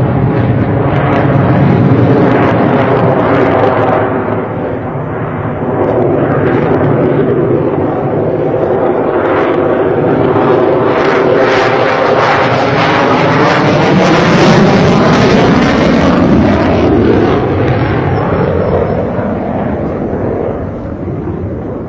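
Sukhoi jet fighter flying past, its engines loud and sustained, with a rushing sound that sweeps up and down in pitch. It dips briefly early on, is loudest about two-thirds of the way through, and fades near the end.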